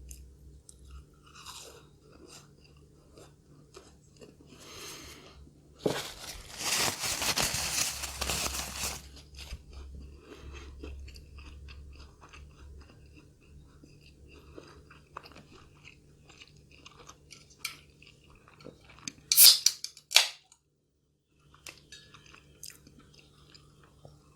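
Close-up crunching and chewing of a fried curry puff's crisp pastry crust. A long stretch of loud crunching comes about six to nine seconds in, and two sharp crunches near the twenty-second mark, with softer chewing in between.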